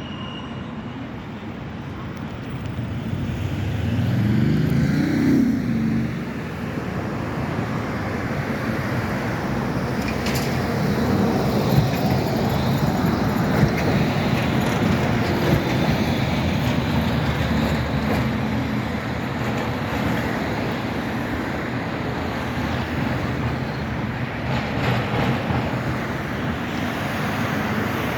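ZET tram running along the street amid road traffic, a steady rumble throughout. About four to six seconds in, a tone rises and the sound swells; there is a single sharp click near the twelve-second mark.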